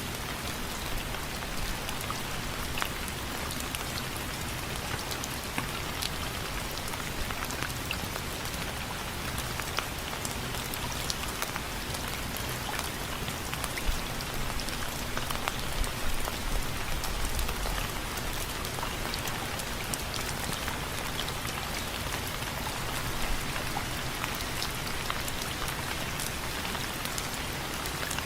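Steady rain falling on window frames, individual drops ticking sharply over an even hiss of rain, with a brief low rumble about halfway through.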